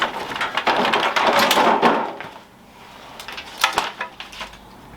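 Power cables and adapters for a 12 V camping fridge being handled and rummaged out of their packaging: a couple of seconds of crackly rustling and small ticks, then a few sharp clicks and knocks.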